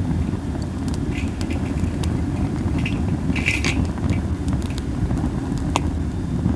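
Masaki (Japanese spindle) wood fire burning, with scattered sharp crackles and pops and a brief hiss about halfway through, over a steady low rumble of wind on the microphone.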